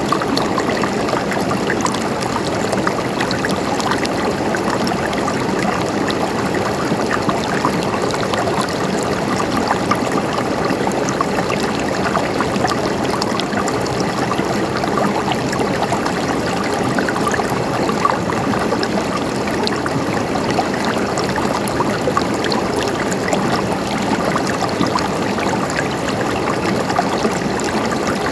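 Stream water flowing and gurgling, a steady babble with many small splashes and drips.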